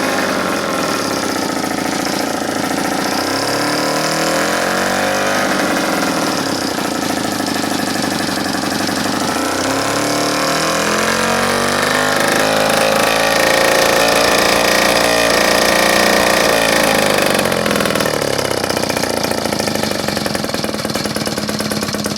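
Small air-cooled Tecumseh two-stroke engine of a Schnake mid-jet outboard running, its speed rising and falling several times.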